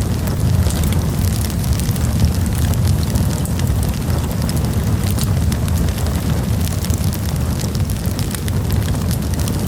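Wood campfire burning, crackling with many small sharp pops over a steady low rumble.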